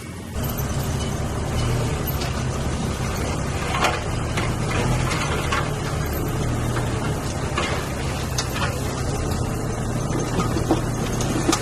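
Heavy diesel earthmoving machinery running steadily, with a deep engine hum and several sharp metallic clanks. The sound comes in abruptly just after the start.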